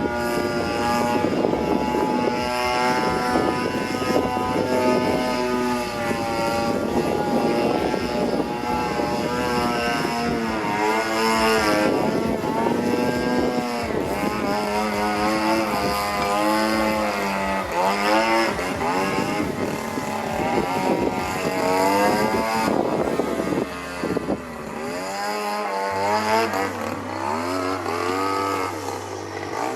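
26cc two-stroke gasoline engine of a 62-inch Katana RC aerobatic airplane in flight, its pitch rising and falling again and again as the throttle changes and the plane passes by.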